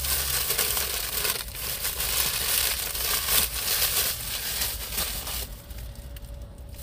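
Plastic packaging crinkling and rustling as it is handled, stopping about five and a half seconds in.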